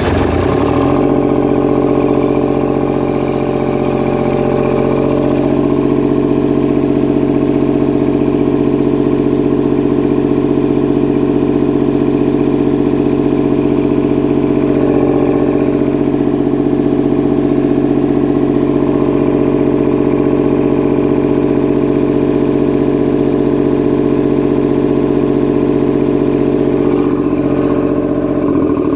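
Deutz F3L air-cooled three-cylinder diesel engine running at a steady speed just after starting, with a slight change in speed near the end.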